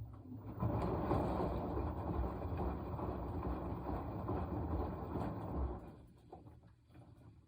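Washing machine in its wash cycle: the drum turns for about five seconds, churning the laundry and water, then stops.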